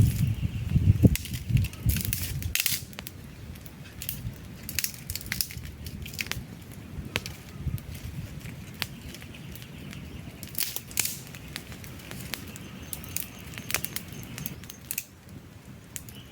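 Wood campfire crackling, with irregular sharp pops and snaps. A low rumble under the crackle in the first couple of seconds cuts off suddenly, leaving the quieter crackling.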